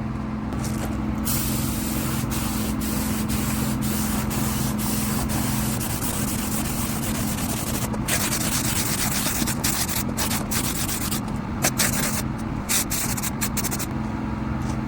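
Spray gun hissing as clear coat is sprayed onto a car bumper, in long passes with short breaks where the trigger is let go, ending in a few brief bursts. A steady mechanical hum runs underneath.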